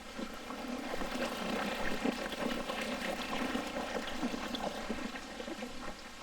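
Shallow water trickling and splashing over rocks, a dense, irregular patter that swells about a second in and fades near the end.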